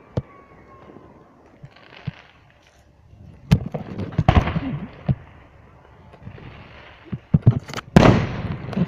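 Fireworks display going off: sharp bangs, each followed by an echoing rumble, with a cluster of bursts about three and a half seconds in and the loudest run of bangs near the end.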